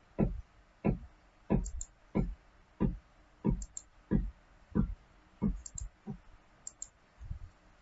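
A steady run of computer clicks at about one and a half a second, from keys or a mouse being worked while a CAD sketch is edited, thinning out and growing fainter near the end.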